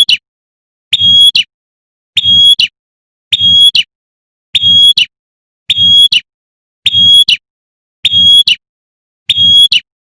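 Prenjak (prinia) call repeated about once a second, each a short, sharp, high, steady note ending in a quick upward flick. These are the rapid 'tembakan' calls of a female calling a male, looped as a lure.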